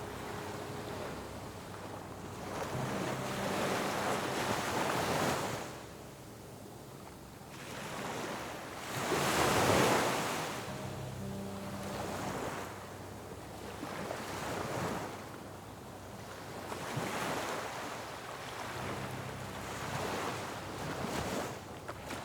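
Ocean surf breaking on a beach, each wave swelling and fading every few seconds, the biggest surge about halfway through.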